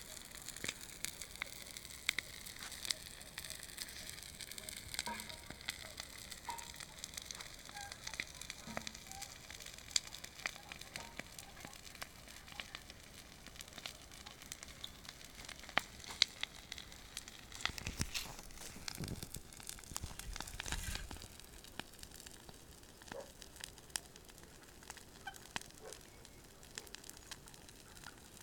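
Bonfire burning with steady crackling and irregular sharp pops. A low rumble comes in for a few seconds about two-thirds of the way through.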